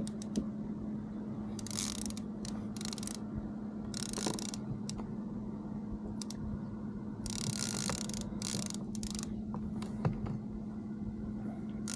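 Steady hum of a Minn Kota electric trolling motor driving the kayak, with short bursts of hiss every second or so.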